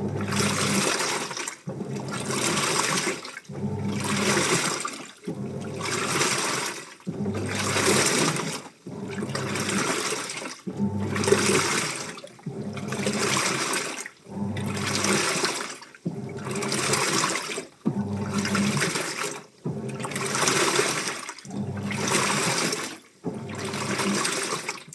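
Washing machine mid-wash, its drum turning the shirts through the water in even surges about every second and a half to two seconds, each with a low motor hum under the water sloshing.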